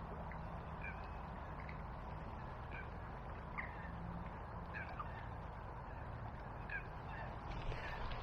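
A bird calls repeatedly, short calls about once a second, over the steady rush of a small river's flowing water.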